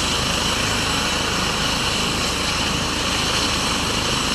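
Twin-engine medical helicopter running on the ground with its rotors turning as the second engine spools up: a steady turbine whine over rotor noise, with wind from the rotor wash buffeting the microphone.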